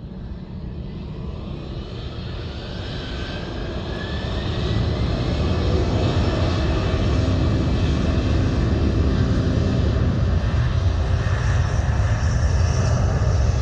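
Jet airliner engines spooling up to takeoff power: a whine that climbs in pitch as the engine noise builds, then a loud, steady rumble from about five seconds in.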